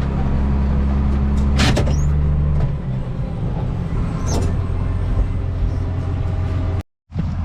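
Combine harvester running steadily with a low engine hum that changes pitch about a third of the way through, with a few light knocks. The sound cuts out completely for a moment near the end.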